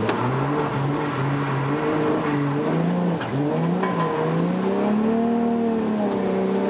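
Toyota JZX100's straight-six engine revving hard while drifting, its pitch climbing and dropping repeatedly with the throttle, and one longer climb and fall in the second half.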